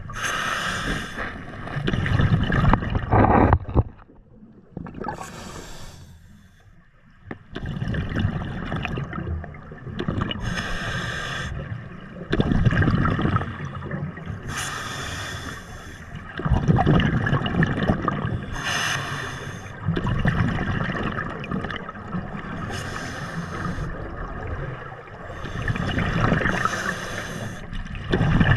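Scuba diver breathing through a regulator underwater: a short hissing inhale about every four seconds, each followed by a longer gurgling rush of exhaled bubbles.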